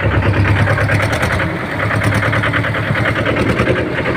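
Tractor engine running steadily with a fast, even clatter.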